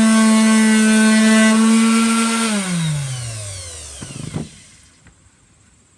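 Electric sander running at a steady hum, then switched off about two and a half seconds in, its pitch falling as the motor winds down. One or two knocks follow as it is handled.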